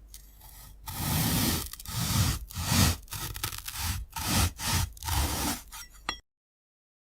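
A knife slicing through a brittle, glass-like fruit in a run of about six noisy scraping strokes. The sound cuts off abruptly into dead silence about six seconds in.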